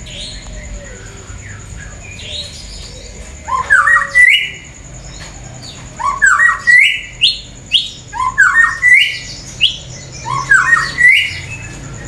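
Pet songbird singing loud, repeated rising phrases, each sweeping upward in a few quick notes; one short run about four seconds in, then a longer run from about six seconds to near the end. Fainter chirps from other birds sound beneath.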